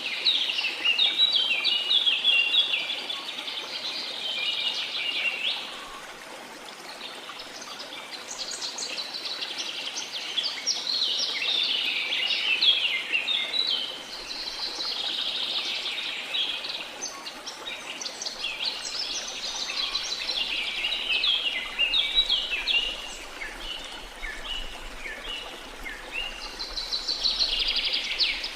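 Several birds singing and chirping in fast overlapping phrases, coming in bursts of a few seconds with short lulls, over a faint steady hiss.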